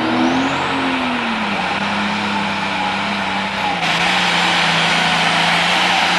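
Diesel pulling tractor engine running hard, its pitch rising briefly and then dropping about a second in before holding steady. A thick hiss under the engine gets suddenly louder a little past halfway.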